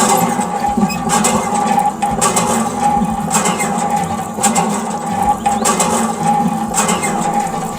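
Small motor of a DIY mini toy tractor running steadily with an even hum, with a few faint clicks.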